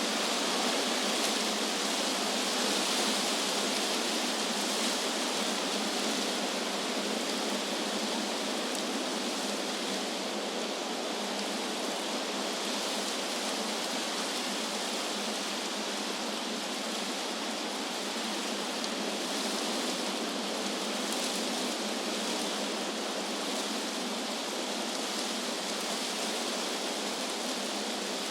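Wind blowing through tree leaves: a steady, even rushing hiss that stays at much the same level throughout.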